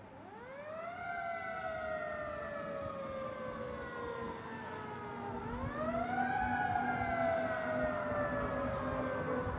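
Federal Q mechanical siren on a fire engine winding up twice, each time rising quickly in pitch and then coasting slowly down.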